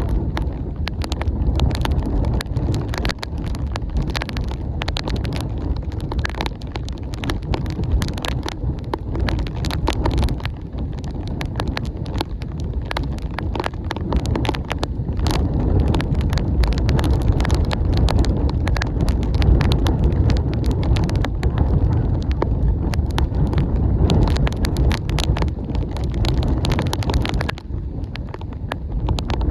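Strong wind buffeting the microphone in a constant low rumble, with raindrops striking in many sharp, irregular taps.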